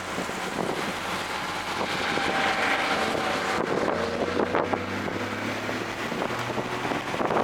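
Toyota GR Corolla's turbocharged 1.6-litre three-cylinder engine running hard on track, its pitch rising and falling with the revs, with wind noise over the microphone.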